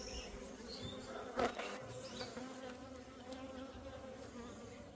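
Honeybees buzzing steadily on the frames of an open hive, a hum of many overlapping wing-beats. A single short knock sounds about a second and a half in.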